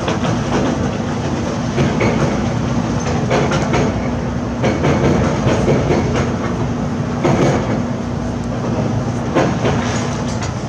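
Heavy construction machinery running: a steady diesel hum with a held tone, under irregular metallic clanks and knocks.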